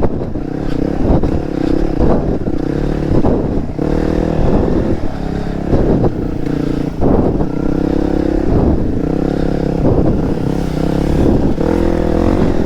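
Dirt bike engine revving in repeated throttle bursts, rising and falling about once a second while riding on a slippery clay trail.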